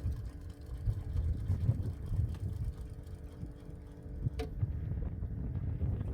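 Wind buffeting the microphone as a low, uneven rumble, with one sharp click about four seconds in.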